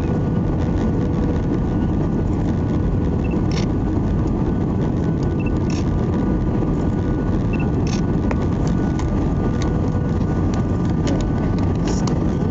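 Steady engine and airflow noise inside the cabin of an Airbus A320-200 jet airliner, an even roar with faint steady whines running through it.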